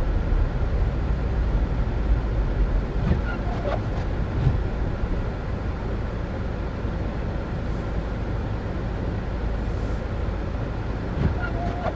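Car driving on a snowy road: steady low rumble of engine and tyre noise, with a couple of faint brief squeaks.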